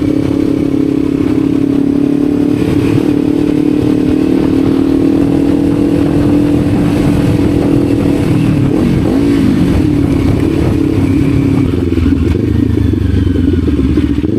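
Motorcycle engine running steadily at cruising speed, with its pitch dipping and rising again briefly around the middle.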